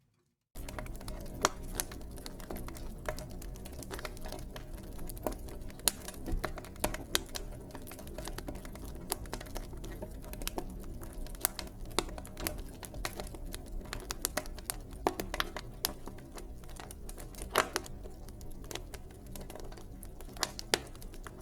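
Wood fire in a fireplace crackling: many sharp, irregular pops and snaps over a low, steady rumble. The crackling starts abruptly about half a second in, after a moment of silence.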